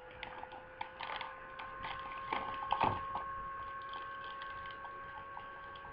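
Irregular clicks and crinkles of a plastic-wrapped snack package being handled, thickest in the first three seconds and thinning out after. A steady electrical hum runs underneath.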